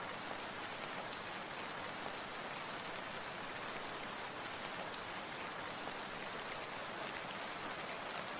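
Falling water making a steady, even hiss that does not change.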